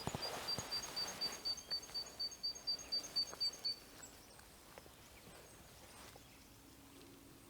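A small songbird calling: a rapid run of short, high, evenly pitched notes, about four a second, that stops about three and a half seconds in, leaving faint forest ambience.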